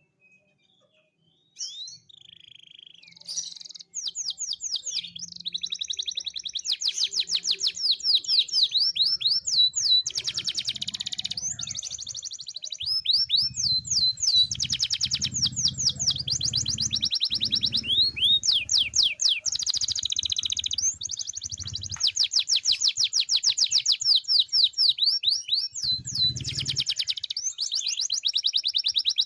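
Domestic canary singing continuously in long, fast trills and rapid repeated sweeping notes, after a near-silent first couple of seconds.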